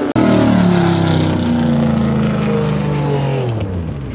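Historic race car engine passing at speed, its note falling steadily in pitch and dropping faster and fading near the end as the car goes by.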